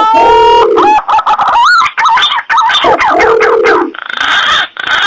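Wild pigeon calls played loudly as a bird-lure recording: a run of whistled notes that glide up and down and warble, ending in three rougher, harsher bursts.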